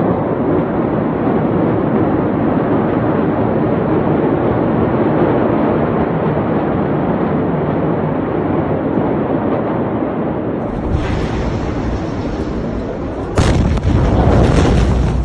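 A steady rushing noise, then about thirteen seconds in a sudden, very loud explosion whose deep rumble carries on.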